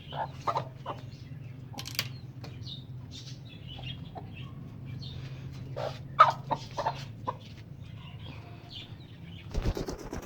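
Domestic birds moving about as they feed: wings flapping, short sharp taps and brief clucks over a steady low hum, with a burst of wing flapping near the end.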